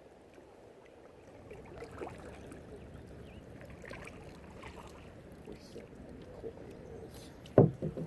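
Kayak paddling: a paddle dipping and dripping water softly, with small clicks. Near the end a single loud knock, the paddle or gear striking the kayak.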